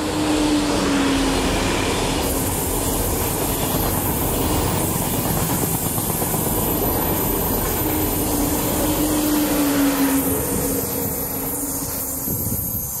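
TGV high-speed train passing at speed: steady rushing rail and wheel noise, with a falling whine twice, about a second in and again around eight to ten seconds in. The noise eases off near the end as the train goes by.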